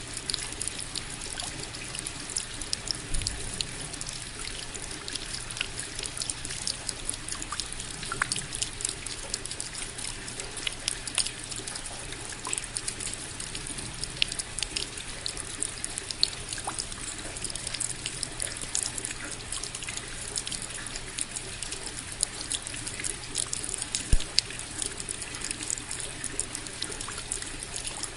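Steady rain with many separate drops striking close by in a dense, irregular patter. There is one louder knock about 24 seconds in.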